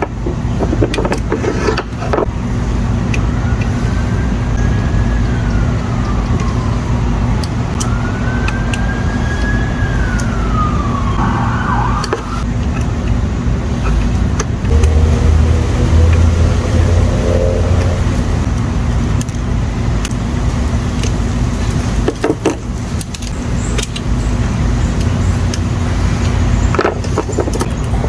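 A steady low hum of background noise, with a distant siren faintly wailing up and down twice in the first half. A few short clicks come through as well.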